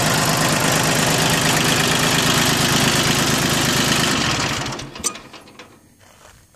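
Mitsubishi MT1601D compact tractor's three-cylinder diesel idling steadily with an even clatter. The engine sound stops about four and a half seconds in, leaving only a few faint clicks.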